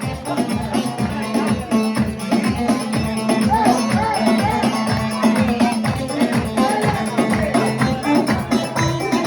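Live band music with a quick, steady drum beat, a held bass line and a wavering melody on top.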